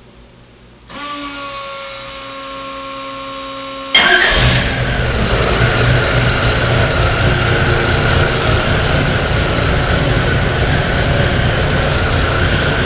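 Supercharged Ford 347 stroker small-block V8 being started on an engine dyno. A steady whine from about a second in as it is cranked, then the engine fires about four seconds in and settles into a loud, steady idle.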